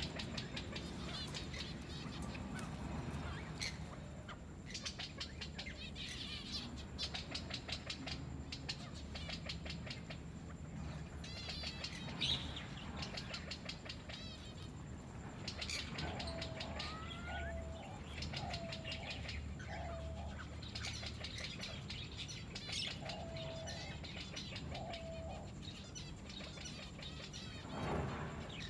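Many small birds chirping and twittering continuously, with a lower call repeated about six times in the second half.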